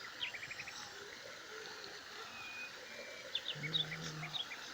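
Songbird calling in short, high chirps, with a quick run of about five notes near the start and another cluster of chirps about three and a half seconds in. A brief low hum sounds underneath during the second cluster.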